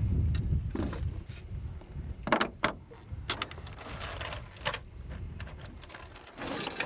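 Scattered clicks and knocks from handling a fish and tackle in a boat, over a low rumble that is strongest in the first second.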